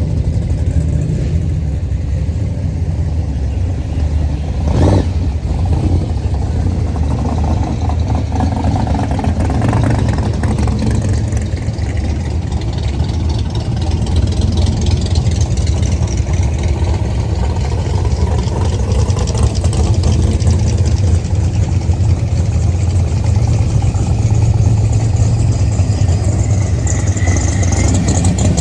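A car engine running and idling nearby, with a single sharp knock about five seconds in.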